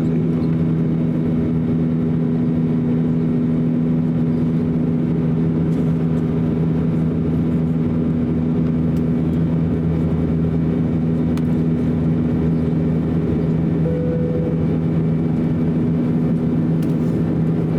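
Steady cabin drone of an Airbus A321 in flight, its two IAE V2530-A5 turbofans humming with low steady tones over the rush of air, heard from inside the cabin.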